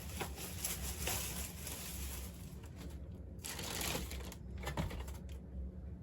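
Rustling and handling of packaging, in irregular bursts with a few light clicks, as diecast cars are handled and taken from a box; it goes quieter near the end.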